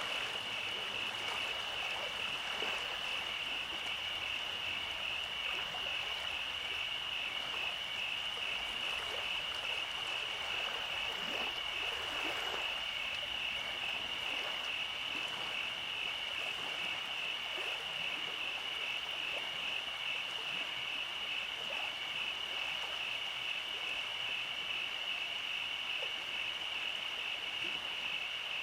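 Steady nighttime chorus of calling animals: a dense, high-pitched pulsing trill that never lets up, over a faint hiss.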